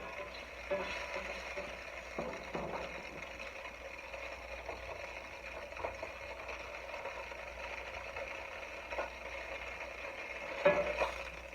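A steady kitchen hum, with a few light knocks and scrapes of a utensil against a pot of thickening sauce on the stove.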